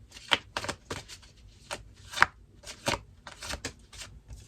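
Tarot cards being shuffled and handled: a run of quick, irregular flicks and slaps of card stock.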